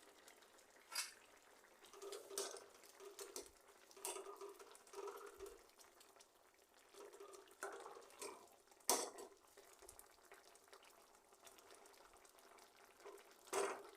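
Quiet cooking sounds: a few scattered clinks and taps of a utensil on a pot, over faint liquid sounds from the boiling gravy.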